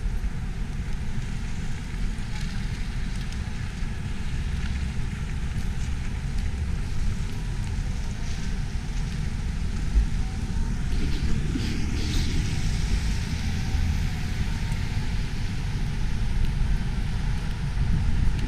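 Wind buffeting the microphone with a steady rumble of city traffic; a vehicle passes by, a little louder, about two-thirds of the way through.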